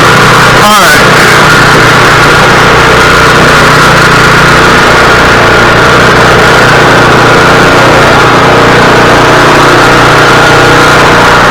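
Small engine running steadily and loud, with a brief glide in pitch about a second in.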